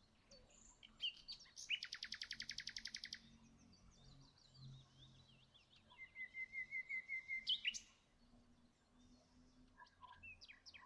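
Faint bird song: a rapid trill about two seconds in, a run of short chirps, then another trill near the middle that ends in a quick upward sweep, with a few soft chirps near the end.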